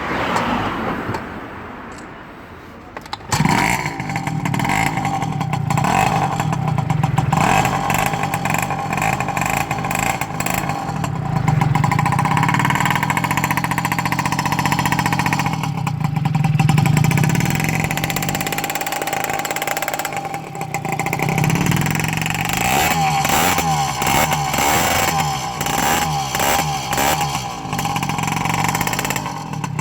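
Motorcycle engine heard through its exhaust pipe: it starts suddenly about three seconds in, runs steadily, and is revved up and down several times in the second half.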